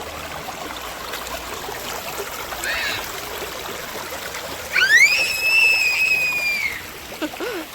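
Small river running and trickling over rocks. About halfway through, a loud, high, drawn-out cry of about two seconds cuts in: it jumps up in pitch, holds level and then tails off.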